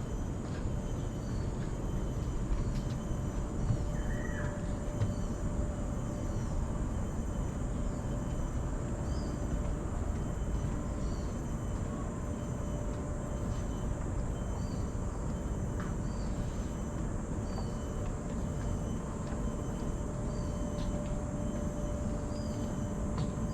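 Outdoor park ambience: a steady low rumble, with a bird repeating a short high note roughly once a second and a steady high-pitched hum.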